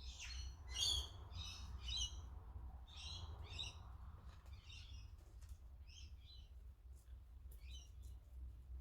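Faint bird chirping, a series of short chirps repeating about once or twice a second, over a steady low hum.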